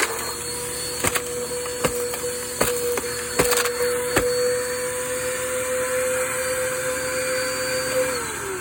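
PowerForce compact vacuum cleaner running with a steady motor whine, with sharp clicks and clacks of debris being sucked through it several times in the first half. Near the end the motor winds down, its pitch falling.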